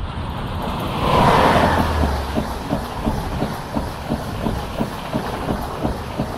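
Talgo 250 'Strizh' train passing at high speed behind its EP20 electric locomotive. The locomotive's rush of noise peaks, at its loudest, about a second in. The articulated coaches then rattle by with a fast, regular clickety-clack of wheels over the rail joints, about three to four beats a second.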